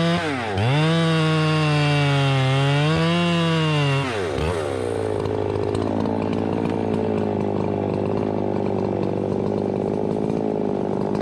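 Two-stroke chainsaw revved high, dipping briefly just after the start and then holding, before dropping about four seconds in to a lower, rougher running note. The saw is worn and neglected, running poorly.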